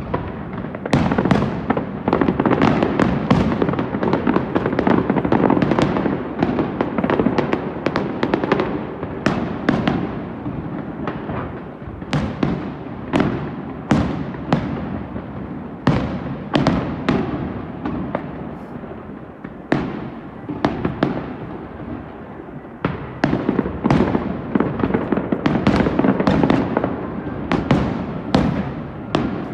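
Aerial fireworks display: a dense barrage of shells bursting with sharp bangs, often several a second, over continuous crackling. The barrage thins out about two-thirds of the way through, then builds up again near the end.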